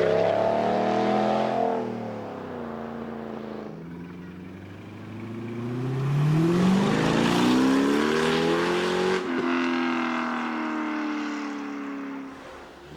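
Muscle car engine pulling away hard from the meet: the revs fall away over the first couple of seconds, then climb steeply from about five seconds in, drop sharply at a gear change near nine seconds, and hold before fading near the end.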